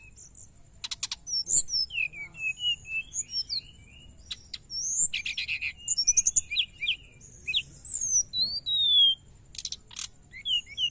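Brown-chested jungle flycatcher (SRDC) singing busily: a quick, varied run of short chirps and whistled slurs, broken by a few fast rattling trills.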